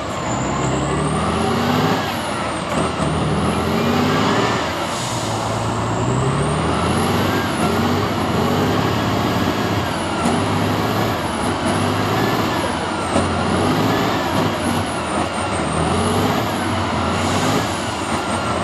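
A truck engine revving hard in repeated surges, its pitch climbing again and again, with a high whine rising and falling above it.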